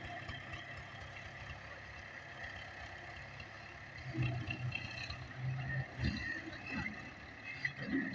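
Tractor diesel engine running steadily, with louder uneven swells in the second half.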